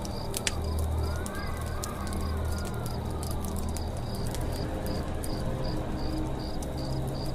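Campfire crackling with scattered sharp pops, over crickets chirping steadily about two to three times a second. A bird gives a gliding call in the first few seconds.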